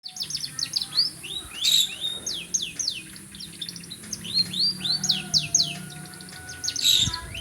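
Domestic canary singing: a fast, continuous run of quick downward-sweeping whistled notes and trills.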